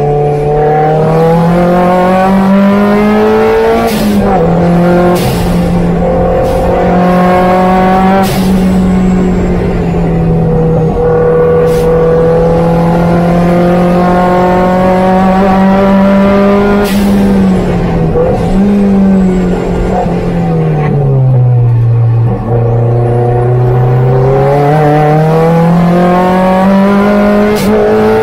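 Opel Speedster's four-cylinder engine heard onboard, held at high revs on a fast lap. The pitch climbs and drops sharply at gear changes, sags low for a couple of seconds before climbing again near the end. A few short sharp clicks or knocks cut through it.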